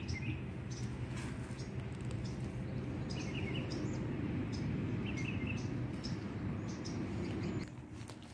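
Small birds chirping in short bursts three times over a steady low background rumble that drops away near the end.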